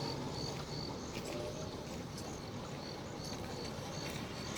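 Insect, likely a cricket, chirping in short high notes about two to three times a second, over a low steady background rumble.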